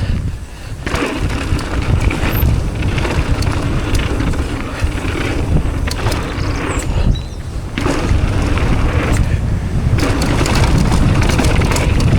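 Mountain bike tyres rolling over a dirt trail with wind buffeting the camera microphone and the bike rattling, the noise dropping away briefly twice, near the start and about seven seconds in.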